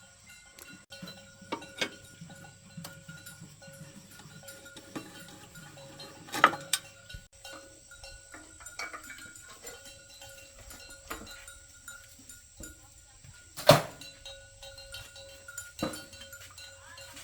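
Scattered light clicks and clinks of hand tools on motorbike metal parts, with two sharp, louder knocks, one about six seconds in and one near fourteen seconds.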